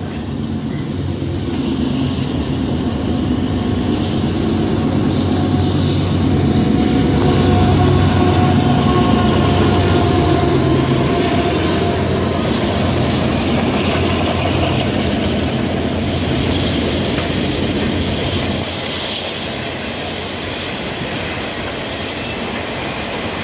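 CSX freight train passing close by: its diesel locomotives run past, loudest about a third of the way in, then enclosed autorack cars roll by with a steady rumble of steel wheels on the rails.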